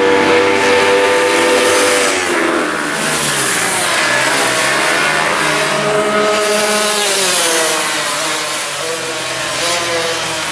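Small-capacity racing motorcycle engines at high revs. The pitch holds, drops about two seconds in, then climbs again a few seconds later as the revs change.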